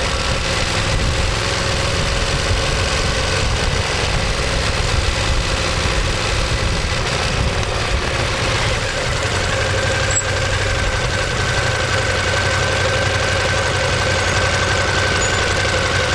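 Ducati Monster 1200S's 1198 cc L-twin engine running steadily, its low exhaust pulse unbroken; about nine seconds in, a steady higher whine and a firmer low hum come in and hold.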